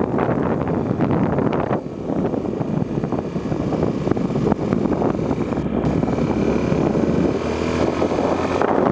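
Honda Tornado 250 trail motorcycle running at road speed, its engine under a continuous rush of wind buffeting the microphone.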